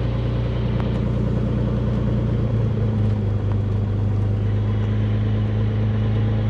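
Beechcraft Bonanza's piston engine and propeller idling steadily on the ground while the engine warms up, the note shifting slightly about two and a half seconds in.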